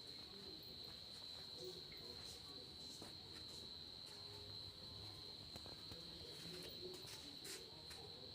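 Crickets trilling, a faint steady high-pitched drone without a break.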